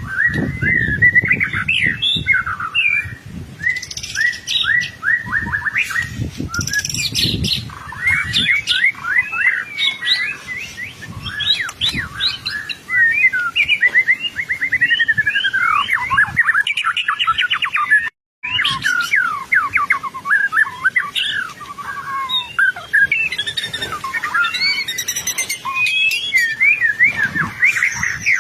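White-rumped shama singing continuously: a fast, unbroken run of varied whistled phrases, slurs and trills. There is a brief gap about eighteen seconds in. A low rumble sits beneath the song in the first several seconds.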